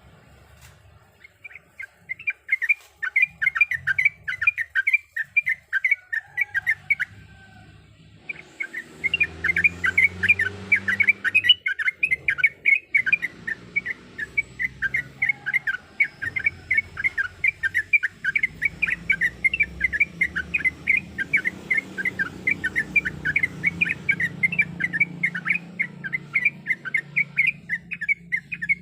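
Yellow-vented bulbul singing a long, fast run of chattering notes, several a second, broken by a short pause about seven seconds in.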